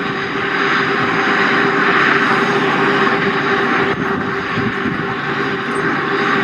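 Airplane engines running loudly and steadily: a broad rushing noise with a steady whine.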